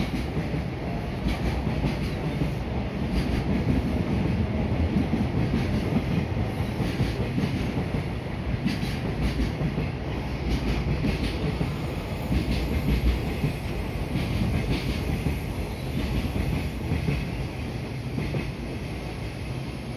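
Train noise at a station: a steady low rumble with scattered clicks and rattles, busiest around the middle and easing off near the end.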